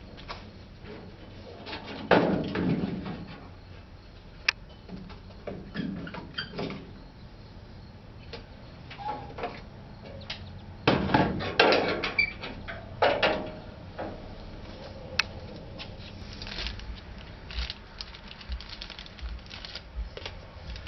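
Scattered knocks, clicks and clatter of hand tools and parts being handled, louder in short clusters about two seconds in and again around eleven to thirteen seconds in.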